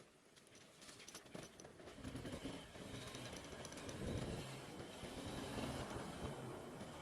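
Motorcycle, a Haojue NK150 dirt bike, running with a low, rough rumble that grows louder about two seconds in.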